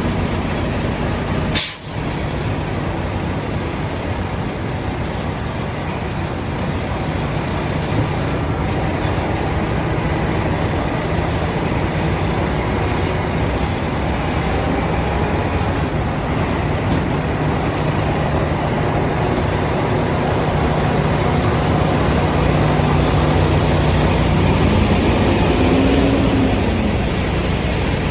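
Semi truck's diesel engine running steadily at low speed while the rig is backed into a dock, with a brief rise and fall in engine pitch near the end. The sound cuts out for a moment about two seconds in.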